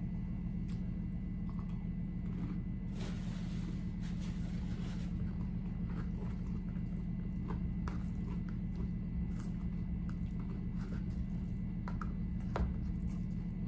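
Close-up chewing of a tortilla chip topped with burrito-bowl filling, with soft crunches and wet mouth sounds over a steady low hum. Near the end a fork clicks against the bowl.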